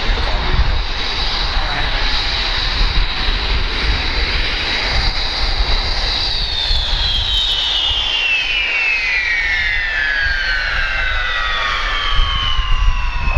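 Single-engine turbojet of an Aero L-29 Delfin jet trainer whining high and steady, then falling smoothly and steadily in pitch through the second half as the engine winds down, over a steady low rumble.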